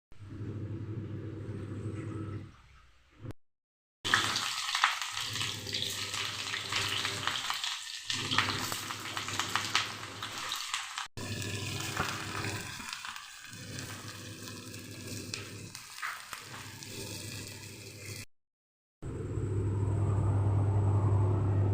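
Food frying in a pan, sizzling with many small crackles, heard over several short clips that cut off abruptly.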